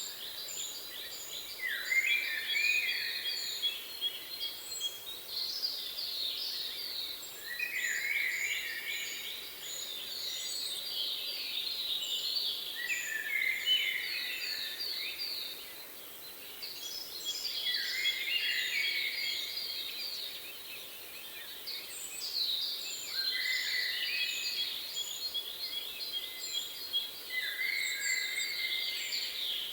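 Songbirds singing: phrases of fast trills that drop in pitch at the end, repeating every four or five seconds, with a steady run of short, very high notes, several a second.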